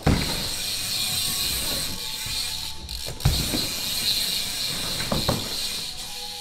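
BMX bike's rear hub ratchet buzzing as the bike coasts, with tyres rolling on wooden ramps. There is a heavy knock as the tyres hit the ramp at the start, another about three seconds in, and lighter knocks about five seconds in.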